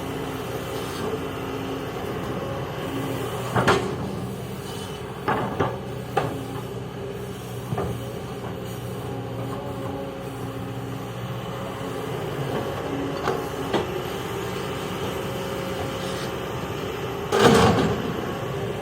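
Kobelco excavator's diesel engine running steadily, with a series of sharp clunks and knocks from the machine's work. The loudest clunk comes near the end.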